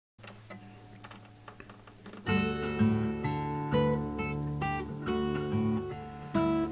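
Acoustic guitar music: quiet at first, then loud strummed and plucked chords from about two seconds in, each stroke ringing and fading.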